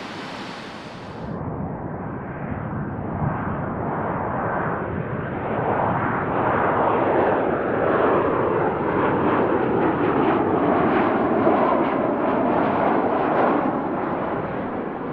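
Jet airliner's engines heard as the aircraft passes close by, the noise building over several seconds with a sweeping, phasing quality. It stays loudest through the middle and latter part, then eases slightly near the end.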